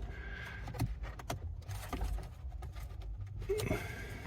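Plastic wiring-harness connectors being handled and pushed together: scattered light clicks and knocks with some rubbing, as a factory plug is fitted into a remote-start harness connector.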